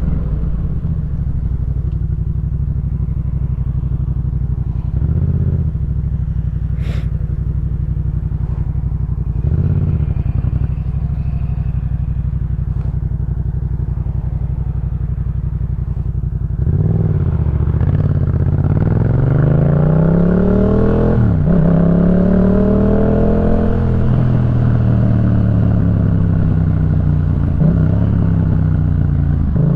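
Yamaha MT-07's parallel-twin engine through a Jeskap K4 full aftermarket exhaust, running at steady revs for about the first half. Past the middle it accelerates, the revs climbing and dropping back several times as it shifts up through the gears.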